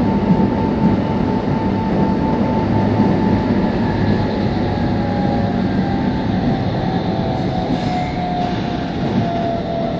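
Meitetsu 3500 series electric train running: a steady rumble of wheels and running gear, with a motor whine that falls slowly in pitch as the train slows.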